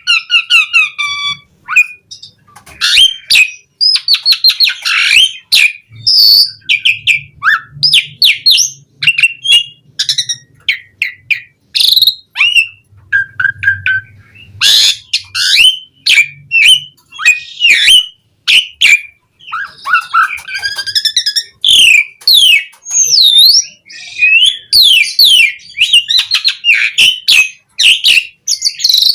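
Asian pied myna (jalak suren) singing a long, varied song: a fast, unbroken run of gliding whistles, sharp clicks and chattering phrases.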